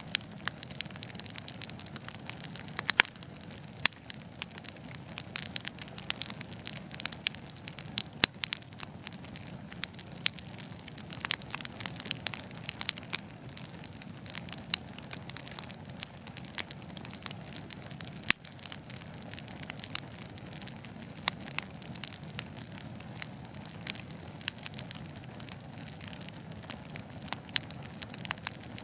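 Wood fire crackling in a fireplace: a steady low rushing of the flames with frequent sharp, irregular pops and snaps.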